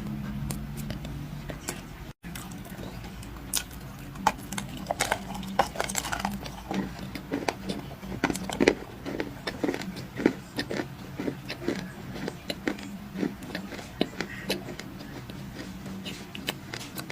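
A person biting and chewing dry pieces of black clay: from about three seconds in, a run of sharp, irregular crunches, several a second.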